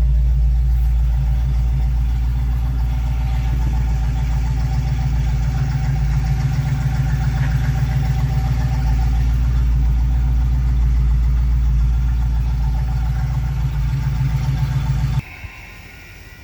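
Rebuilt 302 V8 of a 1968 Ford Mustang idling steadily through its dual exhaust, cutting off suddenly near the end.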